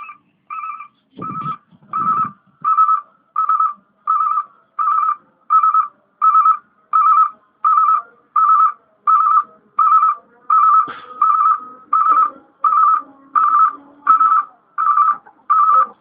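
Heavy vehicle's backup alarm beeping steadily, about 1.4 beeps a second, each beep one high pitch, over a faint low engine rumble.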